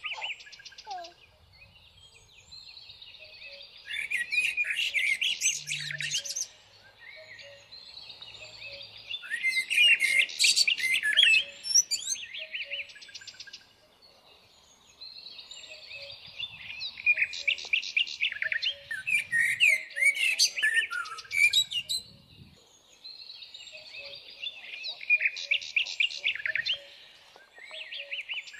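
Birds chirping and singing: louder bursts of rapid high chirps every few seconds, with softer twittering between them.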